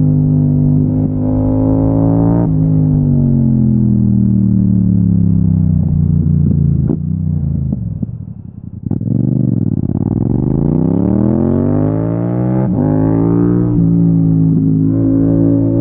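Yamaha MT-07's parallel-twin engine under way. The engine note falls as the bike slows and goes briefly quieter with the throttle closed about eight seconds in. It then climbs as the bike accelerates, and a gear change drops the pitch about thirteen seconds in.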